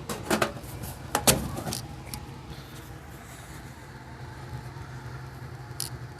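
Geothermal heat pump running with a steady low hum. A few sharp clicks and knocks come in the first two seconds and once more near the end.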